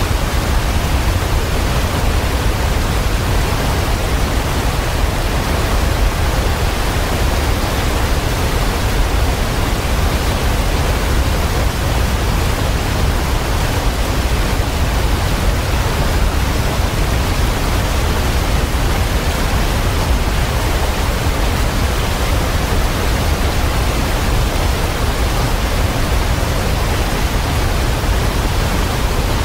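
Waterfall: a steady, deep rush of falling water, unchanging throughout.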